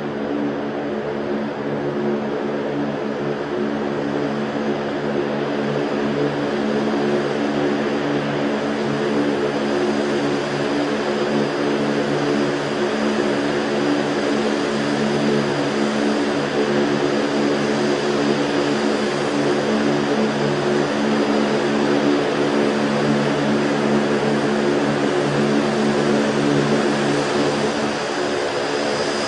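V-22 Osprey tiltrotor running, its two turboshaft engines and proprotors making a loud, steady drone with a low, steady hum, growing a little louder in the first few seconds.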